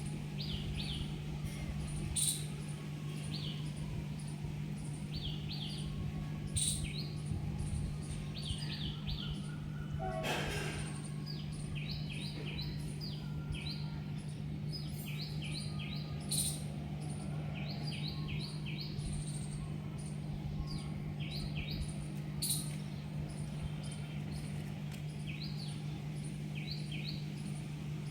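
Small birds chirping repeatedly in quick high clusters of two to four notes, over a steady low hum.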